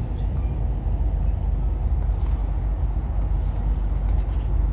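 Steady low rumble of a moving passenger train heard inside the carriage: wheels running on the rails and the car's running noise, with a few faint ticks.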